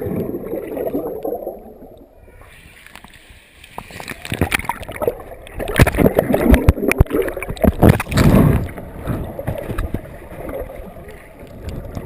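Water splashing and gurgling around kayakers practising the roll in a pool, with a cluster of loud, irregular splashes in the middle.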